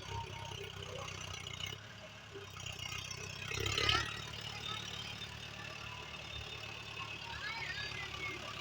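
Tractor diesel engine running steadily, with a louder swell about three to four seconds in.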